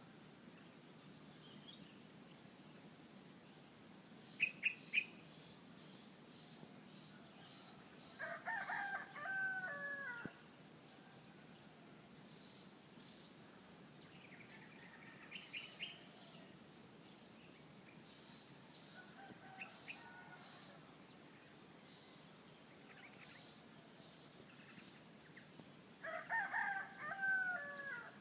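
A rooster crowing twice, about eight seconds in and again near the end, with short bird chirps in between, over a steady high hiss.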